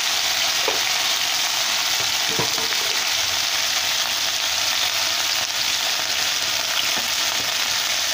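Boiled green banana pieces sizzling in hot oil in a nonstick kadai: a steady frying hiss with a few faint clicks.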